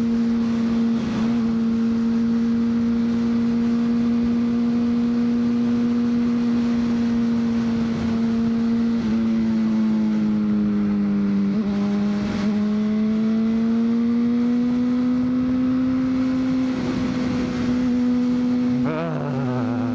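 2003 Honda CBR600RR's inline-four engine running at a steady cruise under way, easing off a little about nine seconds in and picking up again around fourteen seconds.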